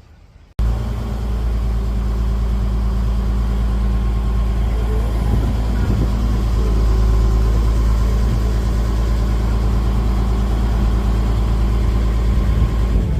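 A vehicle engine running steadily at idle with a deep rumble. It starts abruptly about half a second in.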